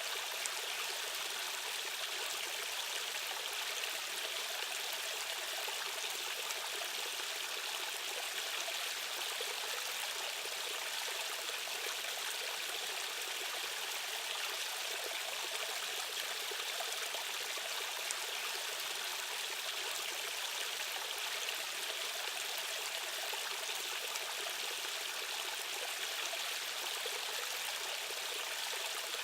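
Steady rush of a stream's current: an even, unbroken hiss of running water with almost no deep rumble.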